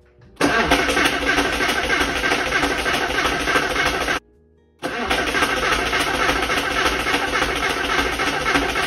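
Porsche 968's 3.0-litre four-cylinder engine being cranked by the starter without firing, in two attempts: about four seconds of cranking, a half-second stop, then cranking again. It will not catch because no fuel is reaching the engine; the fuel pump is not running and the fuel rail is bone dry.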